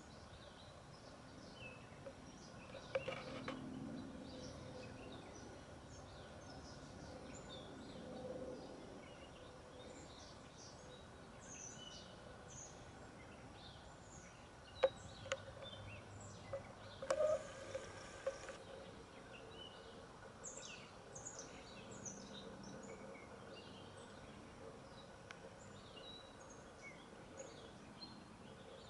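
Faint outdoor ambience with many birds chirping, short high calls scattered throughout over a low steady hum. A few sharp clicks break through, the loudest about fifteen seconds in.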